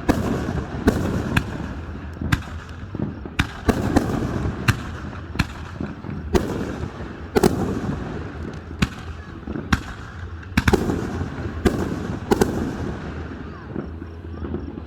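Aerial fireworks display: a dense run of sharp bangs from bursting shells, about one or two a second, over a continuous rumble. It dies away near the end.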